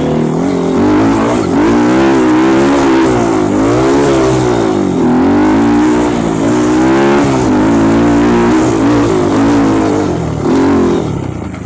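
Off-road trail motorcycle engine revving up and down under load, its pitch rising and falling every second or two, easing off near the end.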